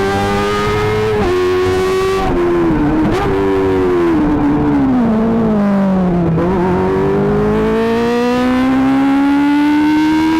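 Kawasaki ZX-25R's 250 cc inline-four running through an Akrapovic GP exhaust at high revs. The engine note holds high, wavers and falls over a few seconds from about two seconds in, then climbs steadily again in a smooth rise.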